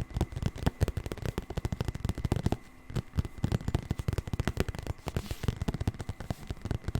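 Rapid, irregular ASMR tapping and scratching on an object, a dense run of sharp clicks with a brief lull about three seconds in.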